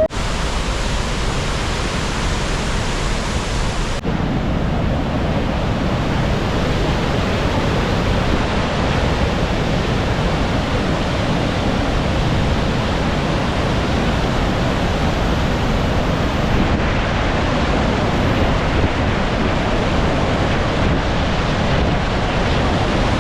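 Rhine Falls waterfall: a loud, steady rush of falling water, with a low rumble of wind on the microphone.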